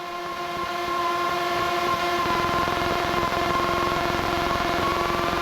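Piper Warrior's four-cylinder engine and propeller running, heard in the cabin as a steady, even drone that grows louder over the first second or so and then holds level.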